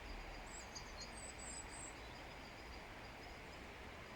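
Faint high bird chirps, a few short notes in the first two seconds, over steady low outdoor background noise.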